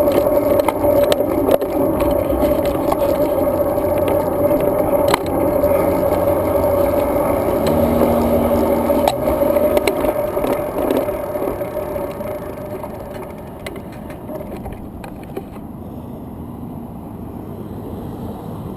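Road bike rolling along pavement: steady tyre and road noise with a hum, and frequent clicks and rattles. It grows quieter about three-quarters of the way through.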